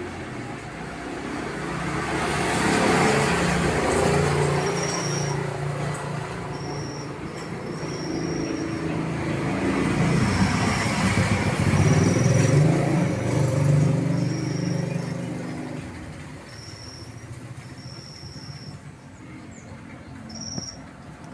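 Rumble of passing traffic that swells and fades twice, with a canary's short, high, steady notes repeating over it.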